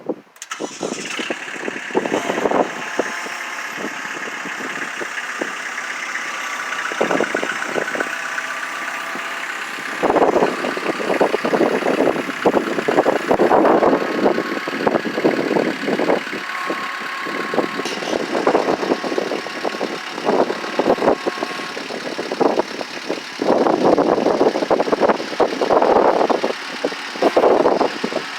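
Kubota tractor engine running, getting louder about a third of the way in, with irregular knocks and clatter over it.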